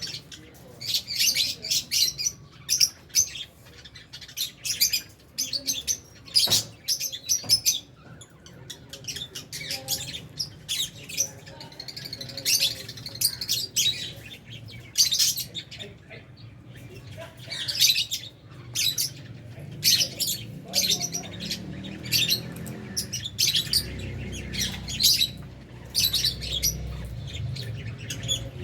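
A flock of aviary lovebirds chirping and squawking, with many short, shrill, overlapping calls, some loud. A low rumble runs underneath in the last few seconds.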